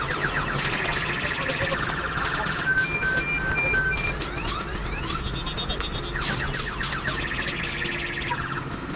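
Car alarm sounding, cycling through its electronic tones: a high warble, rapid chirps and four short beeps, then starting the sequence over about halfway through, over a low background rumble.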